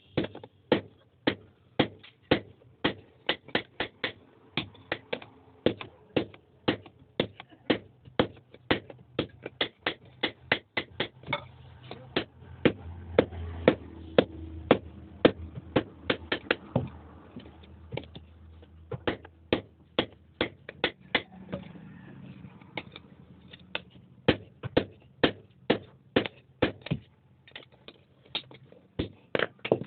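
Blacksmith's hammer striking hot iron on an anvil while forging an axe head, in steady runs of about two to three blows a second, with a short pause about two-thirds of the way through.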